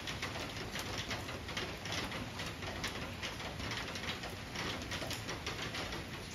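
Steady rain pattering on leaves, dense with small drip ticks, with birds calling behind it.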